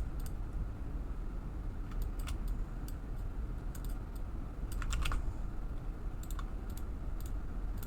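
Computer keyboard and mouse clicking in short scattered runs, a few keys at a time, over a steady low hum.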